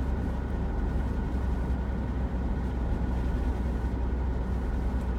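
2011 Buick LaCrosse driving with a steady low drone and rumble, the sign of a worn right rear wheel bearing.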